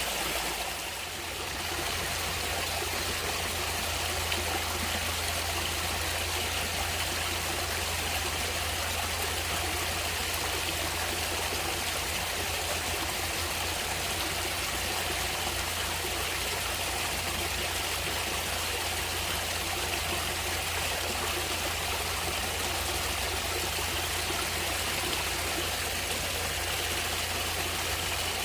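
Natural stream water flowing steadily, a continuous rushing wash of running water that dips briefly about a second in.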